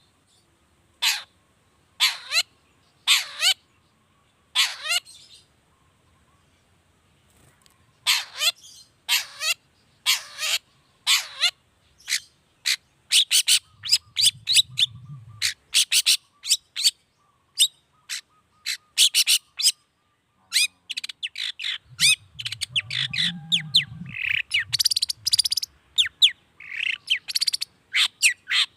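Long-tailed shrike (cendet) singing in loud, sharp, harsh notes. It starts with single calls about a second apart, pauses briefly, then breaks into quick chattering runs of short notes that grow denser near the end.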